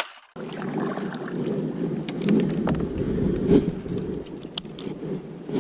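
Steady rushing wind noise on the microphone over a kayak on open water, with a few light clicks and knocks from the boat or tackle. It starts after a brief silence.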